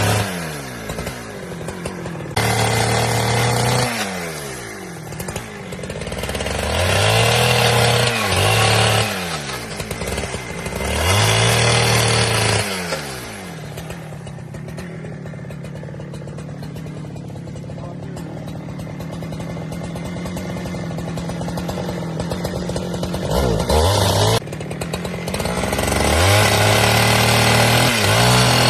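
Chainsaw engine revving up in repeated bursts, its pitch sliding back down to idle between them. It idles through a longer stretch in the middle, then runs at high revs again near the end.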